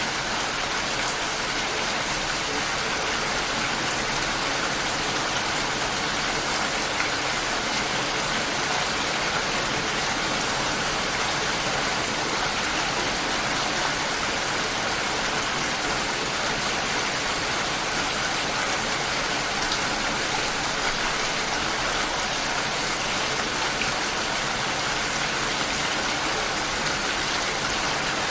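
Steady light rain falling, an even patter of drops with no thunder.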